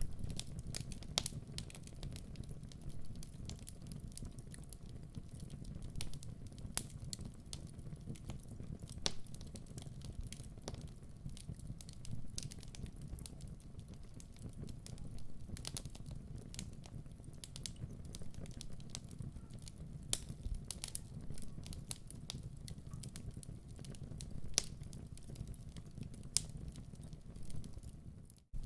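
Wood fire crackling in a fireplace: irregular sharp pops and snaps over a steady low rumble of flames. The sound drops out for a moment just before the end.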